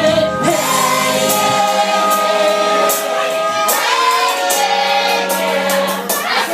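Live band playing a song, with voices holding long sung notes over a steady bass line and repeated cymbal hits.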